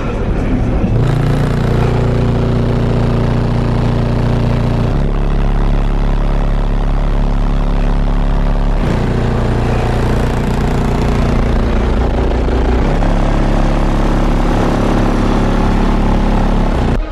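Loud, deep bass notes, each held for several seconds, shifting to a new pitch about every four seconds.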